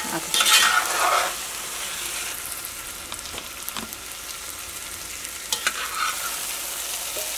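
Fried chicken in thick masala sizzling in a heavy metal pot while a slotted metal spatula stirs and scrapes through it. The stirring strokes are loudest in the first second or so and come again briefly near the end, over a steady sizzle.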